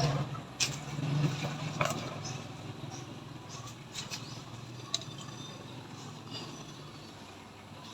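A motor vehicle's engine humming low, fading away over the first few seconds, with a few sharp clicks.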